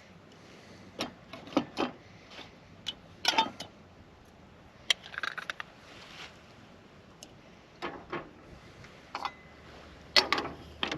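Small metal camp cooking gear being handled: scattered clinks, clicks and knocks, some in quick clusters, as a little percolator and camp stove are set up.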